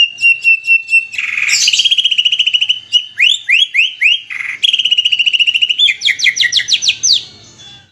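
Compiled songbird calls from a masteran bird-song training mix. A fast, even trill alternates with two short harsh rasps and with runs of quick sharp sweeping notes. The calls fade out just before the end.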